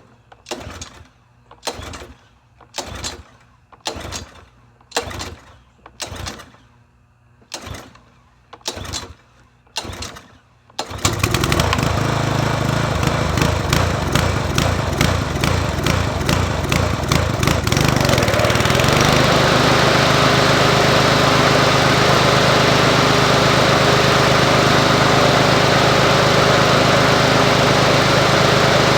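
About a dozen regular knocks, about one a second, then a Toro TimeMaster walk-behind mower's small engine starts and runs. At first it runs unevenly, surging in the way the owner puts down to a carburetor problem. After about seven seconds it settles into a steadier, slightly lower note.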